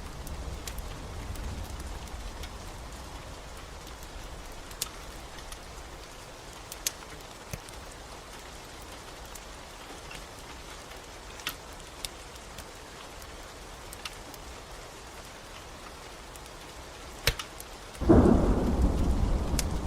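Steady rain with a few sharp pops from a crackling wood fire. About two seconds before the end, a loud thunderclap breaks in suddenly and rumbles on.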